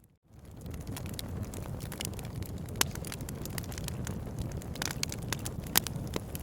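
Wood fire crackling: irregular sharp pops and snaps over a low steady rumble, with two louder pops about three seconds in and near the end. The sound drops out for a moment at the very start.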